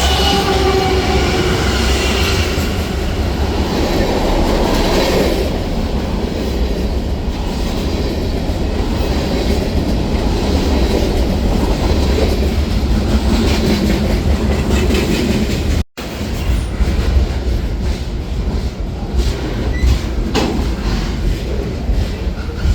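A train passing close by, with heavy rumble and wheels clacking over the rail joints. A ringing tone fades away in the first couple of seconds, and the sound cuts out for an instant about sixteen seconds in.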